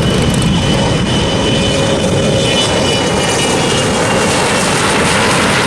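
Jet airplane taking off under full engine power: a loud, steady rushing noise with a faint high whine that drifts slightly lower in pitch.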